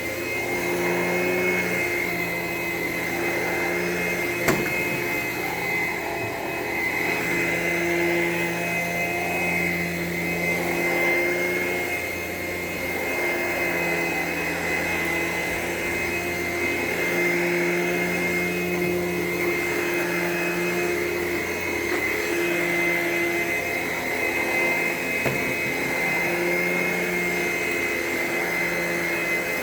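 Vacuum cleaner running while vacuuming a classroom floor: a steady high whine over a lower hum that swells and fades every couple of seconds. There is one sharp click about four and a half seconds in.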